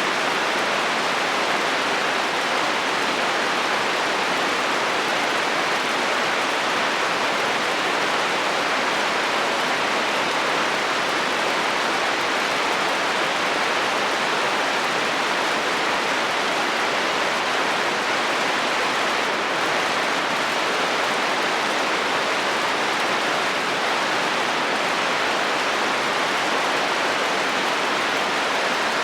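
Steady heavy rain drumming on a metal roof, an even hiss of drops with no thunder.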